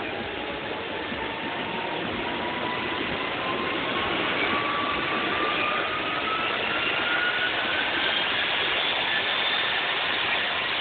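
Small jet engine on a radio-controlled truck running with a steady rushing roar and a high whine that rises slowly in pitch as it spools up.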